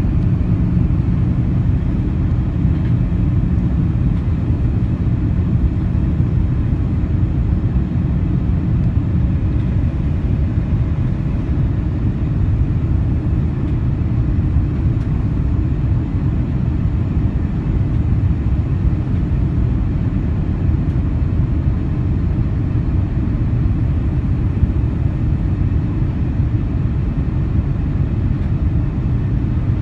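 Cabin noise inside an Airbus A340-300 airliner: a steady low rumble of its four CFM56 jet engines and the airflow over the fuselage, with no change in level.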